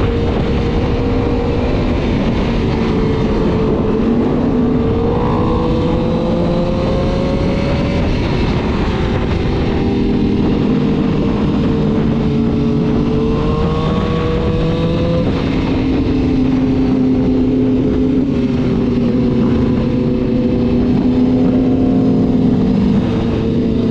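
Sport motorcycle engine running steadily at highway speed over a continuous rushing noise. Its pitch rises and falls slightly several times.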